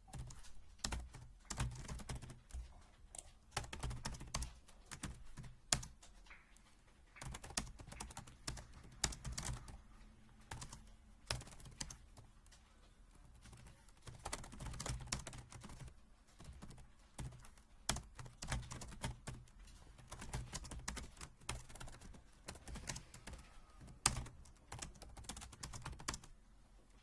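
Typing on an HHKB keyboard in fast bursts of keystrokes separated by short pauses, with a few single keystrokes sharper and louder than the rest.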